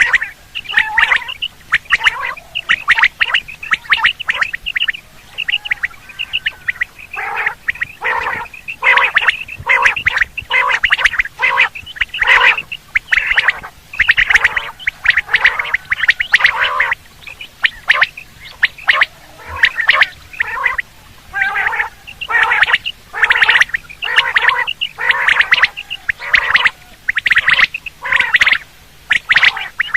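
Quail calling over and over in fast runs of short, sharp notes. It is the kind of call played to lure quail when hunting them.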